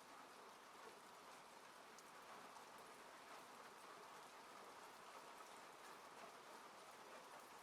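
Faint, steady rain falling on a car, heard from inside the cabin, with scattered faint ticks of single drops.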